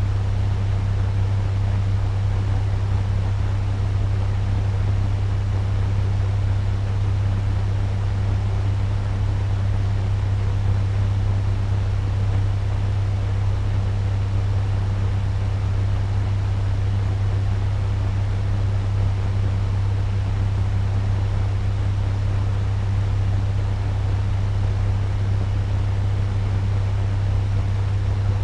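Turbo fan running steadily at medium speed: a constant rush of moving air over a strong low hum.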